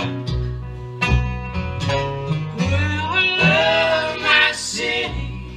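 Acoustic folk band playing live during an instrumental break: plucked guitar and a stepping bass line under a sliding lead melody.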